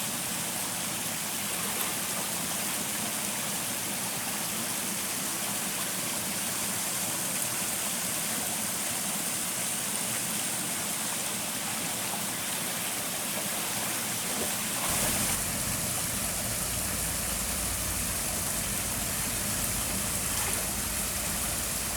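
Stream water rushing steadily as an even hiss. About two-thirds of the way in, a low rumble joins it.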